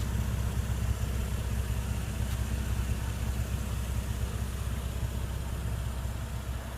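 Steady low hum of a car engine idling, fading slightly toward the end.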